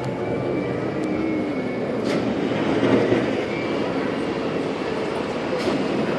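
Steady, heavy rumbling of a large vehicle in motion, with faint wavering tones over it.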